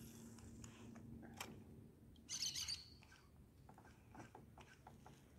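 Faint outdoor quiet with a short burst of high bird chirps about two and a half seconds in, and a few small scattered clicks and knocks.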